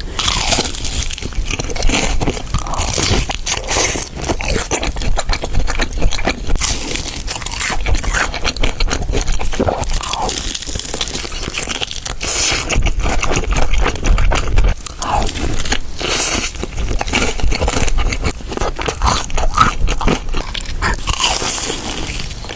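Close-miked eating: crunchy food being bitten and chewed, a dense run of crisp, irregular crunches.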